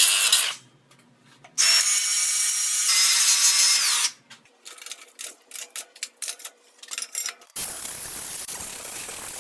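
Angle grinder bevelling and cleaning up steel in two runs, a high whine that winds down as it is switched off about four seconds in. This is followed by light metal knocks and then a steady hiss from about eight seconds in.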